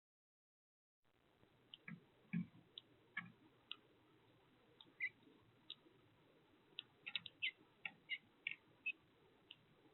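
Birds at a feeder: irregular light clicks and taps, densest near the end, with a few soft low thumps about two seconds in. The first second is dead silent.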